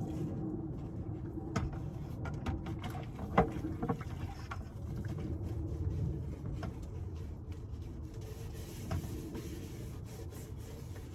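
Dishes and utensils knocking and clinking against a small sink while being washed by hand, a few sharp knocks standing out, the loudest about three and a half seconds in. A steady low rumble runs underneath.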